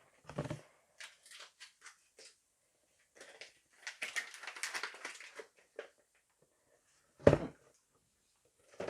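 Hands handling a 3D-printer filament spool and its packaging: scattered light clicks, then a stretch of rustling and rattling. A single loud thump comes about seven seconds in.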